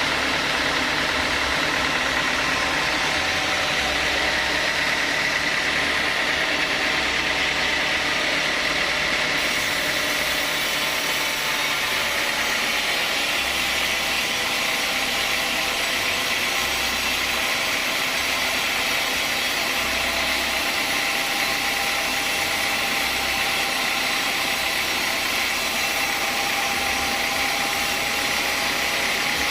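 Sawmill saw machinery running steadily, with a constant high whine over an even mechanical noise.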